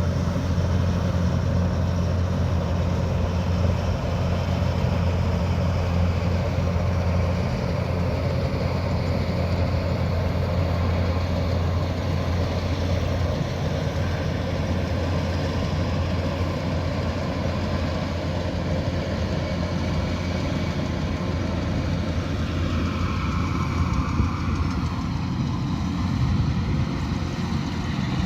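Kubota DC108X rice combine harvester running: a steady diesel engine drone with a strong low hum, under the noise of the working machinery. Near the end a higher whine slides down in pitch.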